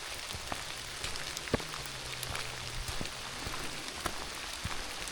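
Steady rain falling, an even hiss with scattered sharp taps of single drops striking.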